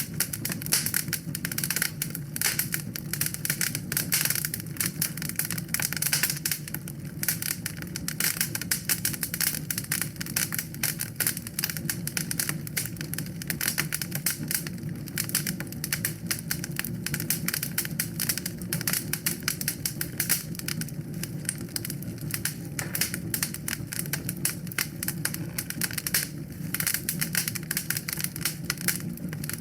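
Wood fire burning in a fireplace, crackling and popping in a dense, continuous stream of small snaps over a steady low rumble of the flames.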